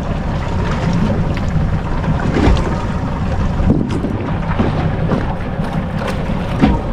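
Wind buffeting the microphone on a small boat drifting at sea, with water lapping at the hull and a few light knocks.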